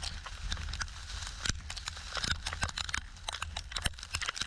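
Footsteps crunching in snow, with wind rumbling on the microphone.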